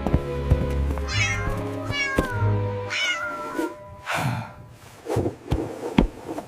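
A cat meowing several times, high wavering calls that slide down in pitch, over background music, with a few short clicks.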